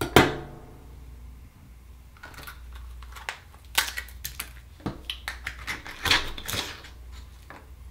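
A sharp clink with a brief ring, then a run of irregular hard clicks and scrapes of oyster shell against a metal tool as an akoya oyster is pried open.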